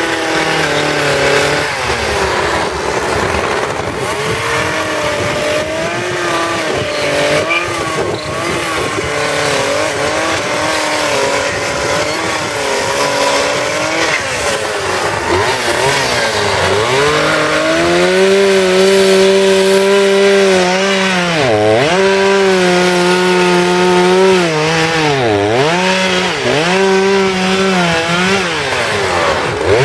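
Two-stroke chainsaw carving wood, its engine speed wandering and sagging under load. From about halfway it holds high, steady revs, with a couple of sharp dips as the chain bites into the wood.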